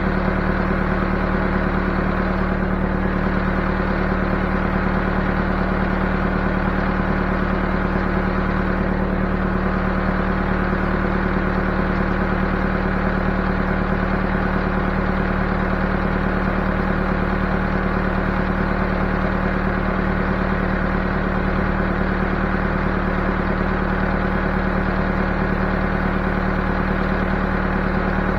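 Backhoe engine running at a steady speed with a constant low hum, without revving up or down.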